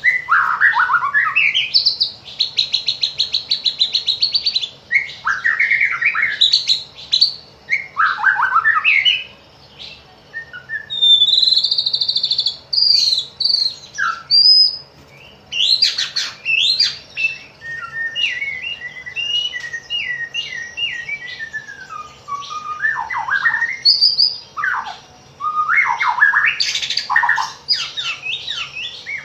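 White-rumped shama (murai batu) singing a long, varied song of loud whistled phrases and sharp notes, with a fast buzzy trill about two seconds in.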